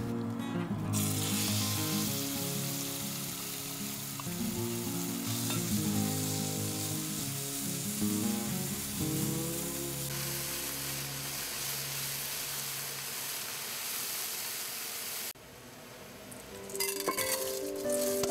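Diced chicken sizzling in hot oil in a nonstick frying pan as it is stir-fried with chopsticks, the sizzle cutting off suddenly about three seconds before the end, over background music. Near the end, a quick pattering of rice grains being poured into a rice cooker's inner pot.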